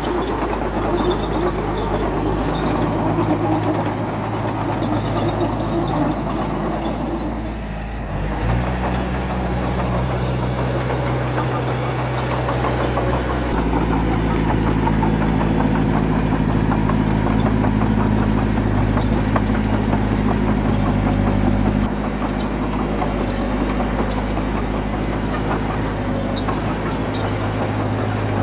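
Diesel engine of heavy earthmoving equipment running continuously, its note shifting up and down several times as throttle and load change: once about eight seconds in, again a few seconds later, and dropping back after about twenty seconds.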